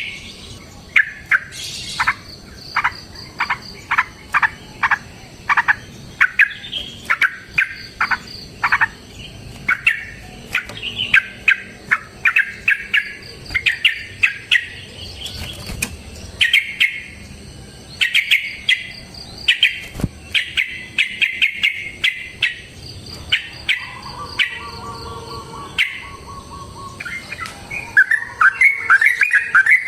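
Yellow-vented bulbul (trucukan) singing its long rapid 'ropel' fighting song: runs of short, bright chirps in quick succession, with brief pauses between runs.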